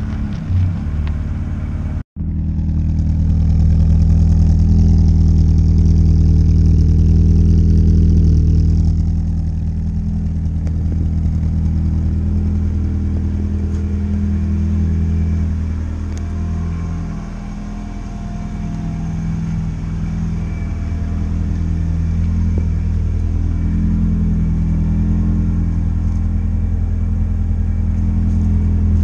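Supercharged 1.6-litre four-cylinder engine of a Mazda MX-5 Miata (Jackson Racing M45 supercharger) idling steadily with a low, even exhaust note. The sound cuts out suddenly for an instant about two seconds in.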